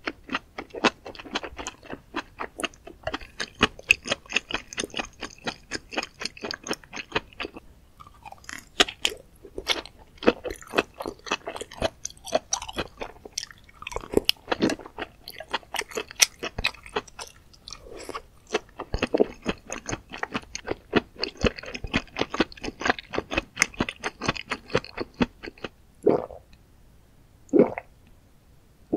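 Close-miked chewing of spicy beech mushrooms, with rapid wet crunches and crackles following one another closely. Near the end come two separate gulps of water being swallowed.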